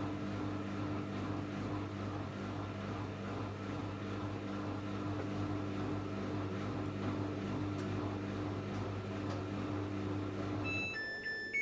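Samsung Eco Bubble washing machine running with a steady low hum at the tail of a cotton cycle. The hum stops about eleven seconds in, and the machine's high electronic tones begin, the start of its end-of-cycle tune.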